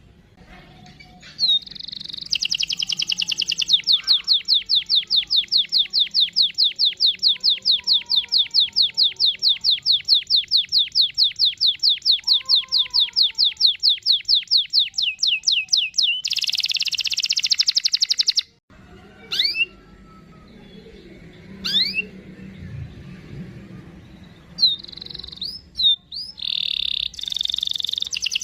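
Domestic canary singing a long rolling trill of rapid, evenly repeated notes, which turns into a harsher buzzy phrase and then cuts off abruptly. A few separate chirps follow, and the song starts again near the end.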